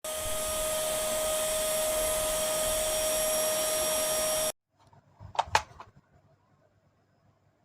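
Vacuum cleaner running steadily with a whine over its rushing air, cutting off abruptly about four and a half seconds in. About a second later come two sharp clicks in quick succession.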